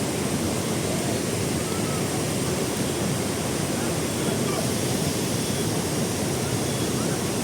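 Salto das Nuvens waterfall rushing: a steady roar of falling water that holds even throughout.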